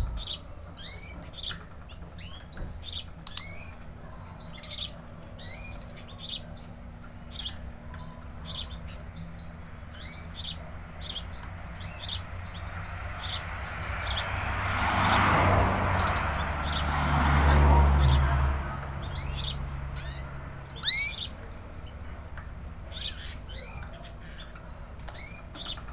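Belgian canary calling with short, high chirps repeated about once or twice a second. A broad rushing noise with a low rumble swells through the middle, and a single thump comes about three-quarters of the way through.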